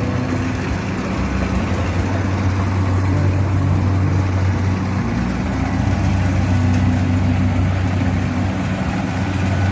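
Kubota DC70 combine harvester's diesel engine running steadily with a low drone, working the tracked machine through sticky, waterlogged mud.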